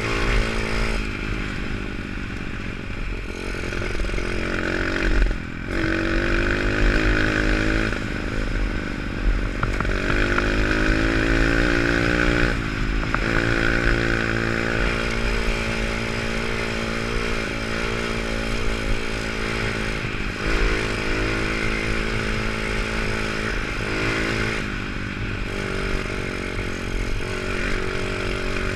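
Pit bike engine being ridden hard: it revs up under throttle with a rising pitch, then drops away briefly several times before pulling again.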